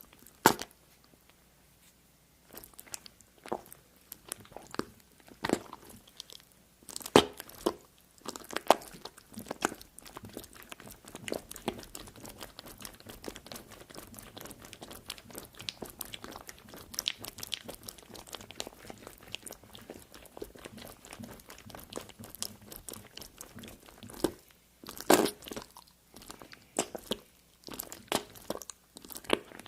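Close-miked crunching and crackling: a run of sharp cracks, a few of them loud, with a dense fine crackle through the middle.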